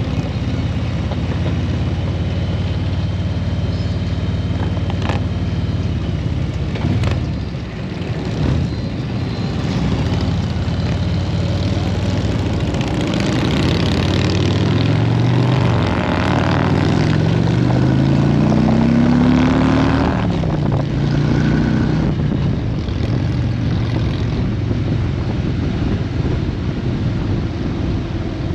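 Motorcycle engine running on the road. About halfway through, the pitch climbs in steps as the bike speeds up through the gears, then it settles back to a steady run.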